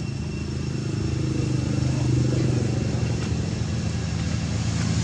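A motor vehicle engine running steadily, growing louder.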